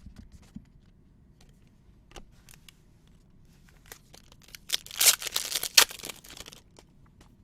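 Foil wrapper of a trading card pack being torn open: a loud crinkling tear lasting under two seconds, about five seconds in, after a few light clicks.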